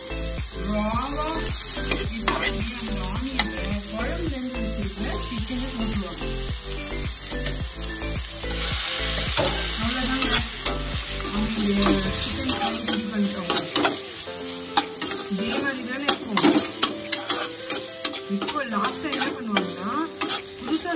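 Chopped onions, green chillies and curry leaves sizzling in hot oil in a pan, mixed with pieces of chicken pepper fry. From about halfway, a spatula stirs and scrapes the pan with frequent sharp scraping clicks over the steady sizzle.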